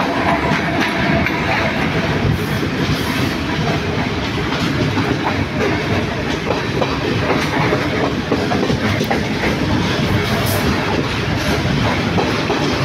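Passenger train running along the track, heard from a coach window: a steady rumble and rush of running noise, with irregular clicks and knocks from the wheels on the rails.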